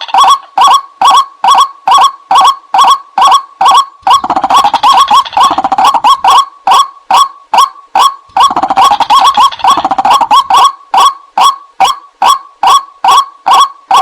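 White-breasted waterhen (ruak-ruak) calls used as a lure call, a loud repeated croaking call about two to three times a second. The calls twice quicken into a rapid overlapping run of calls, about four seconds in and again about eight seconds in.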